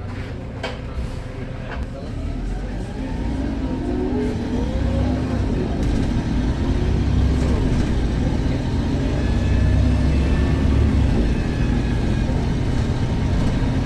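Volvo B7RLE bus's six-cylinder diesel engine pulling away and accelerating, rising in pitch and getting louder over several seconds, with a thin turbo whistle above it. Two sharp clicks come in the first couple of seconds.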